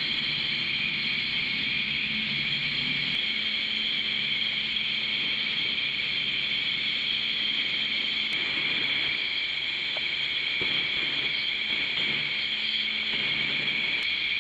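Self-service car wash pressure lance spraying water steadily onto a motorcycle, a continuous hiss, with the low hum of the wash pump coming and going.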